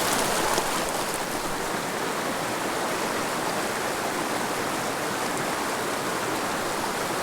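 Shallow mountain stream running over rocks: a steady, even rush of flowing water.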